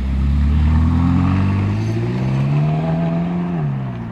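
Ferrari California's V8 engine accelerating as the car pulls away, its pitch rising steadily for about three seconds, then dropping sharply near the end.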